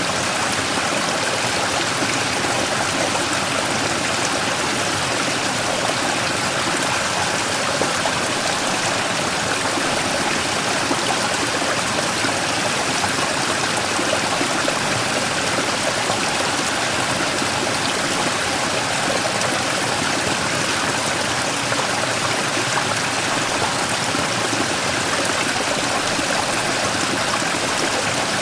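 Mountain stream rushing steadily over and around a large rock, a continuous even splashing and gurgling of flowing water.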